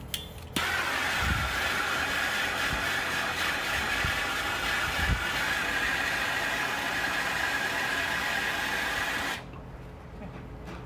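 Handheld gas soldering torch burning with a steady hiss, switched on about half a second in and shut off about a second and a half before the end, while heating a soldered copper pipe joint where a small bubble showed.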